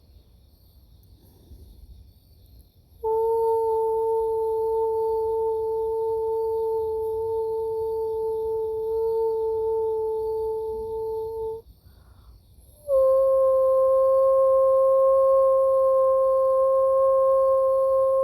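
A woman's voice toning: two long held hummed notes, the second a little higher, with a short break between them.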